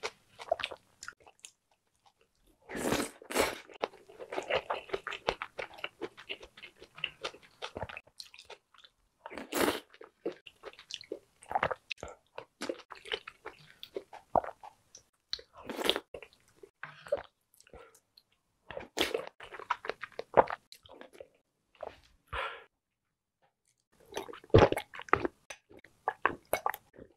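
Close-miked eating sounds: chewing and biting soft, stew-soaked jeon pancakes and dumplings, in short irregular bursts with brief pauses between mouthfuls. Near the end, gulps of water from a glass.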